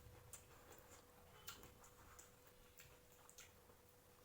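Near silence with a few faint, scattered clicks from people eating biryani.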